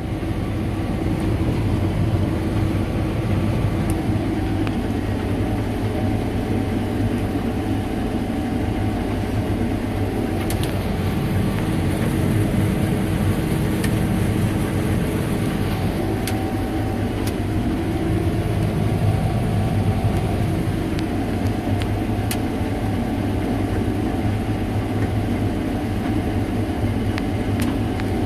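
Combine harvester running steadily in bean harvest: a constant engine-and-machinery drone with a few faint ticks.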